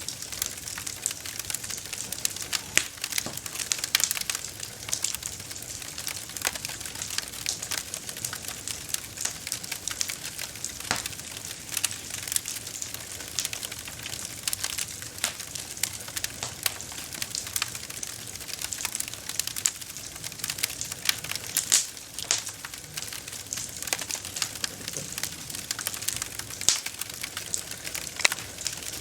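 Campfire burning, with a steady hiss and frequent sharp, irregular crackles and pops from the burning wood.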